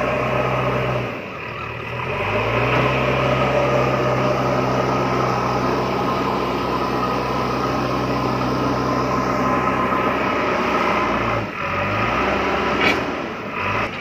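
Small motor of a DIY mini tractor running with a steady hum. It bogs down briefly about a second in and again near the end, each time winding back up.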